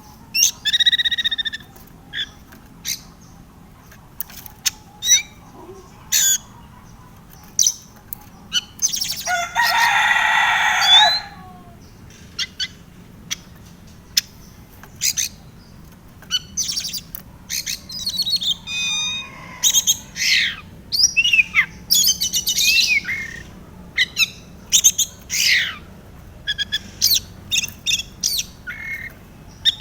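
Oriental magpie-robin (kacer) singing: a varied run of sharp whistles, chirps and quick up-and-down glides in short phrases, with one louder, harsh drawn-out call lasting about two seconds about a third of the way in.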